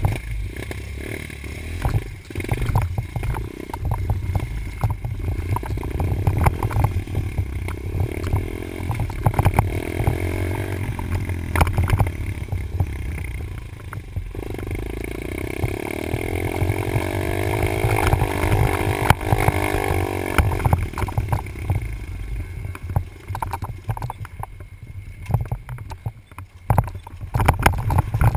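Dirt bike engine being ridden around a track, its pitch rising and falling as it revs up and backs off, with heavy low rumble and frequent knocks and rattles.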